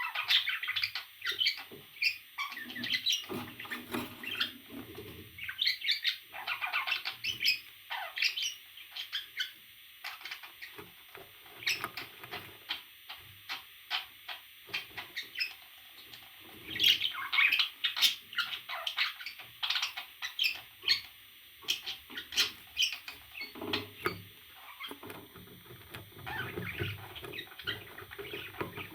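Pet parrot chirping and squawking in quick runs of short, high calls, with a quieter stretch in the middle.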